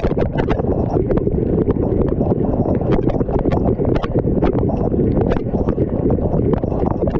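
Water spraying inside a running dishwasher, heard from a GoPro inside the machine: a steady, muffled wash of water with rapid, irregular knocks and ticks as jets and drops strike the camera.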